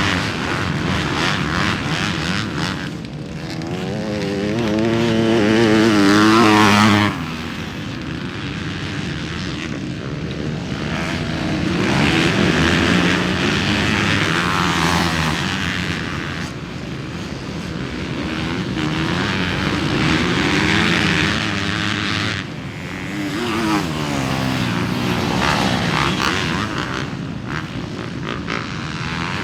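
Motocross dirt bike engines revving hard and dropping back as they race around the track, pitch rising and falling with each throttle change. Loudest as a bike passes close about six to seven seconds in, then cuts down abruptly.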